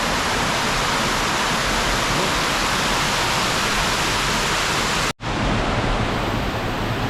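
Waterfall rushing: a steady, loud hiss of falling water, broken by a brief drop-out about five seconds in before the same rush resumes.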